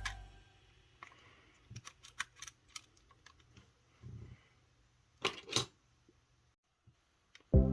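Faint clicks and taps from small parts of a cassette Walkman being handled, with two louder clicks about five seconds in.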